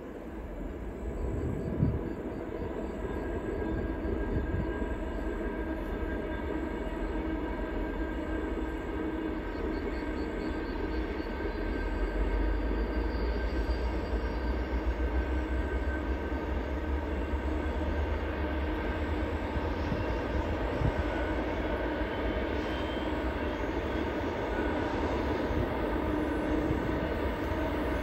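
Freight train rolling past: a continuous rumble of wheels on rail, growing louder over the first several seconds, with a sharp knock about two seconds in.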